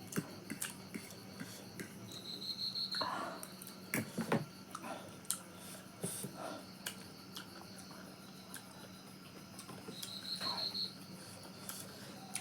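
Quiet mouth sounds of people eating: scattered clicks, smacks and chewing. An insect chirps twice, each time a short pulsed high trill, about two seconds in and again near the end.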